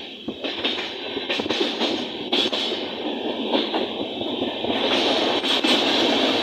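Train running at speed, heard from inside a moving carriage: a steady rushing rumble with scattered sharp clicks of the wheels over the rails, growing louder about five seconds in.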